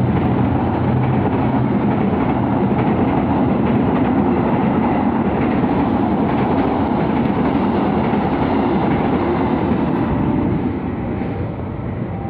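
Train passing close by on the rails: a loud, steady rumble of wheels and cars that drops off about ten and a half seconds in.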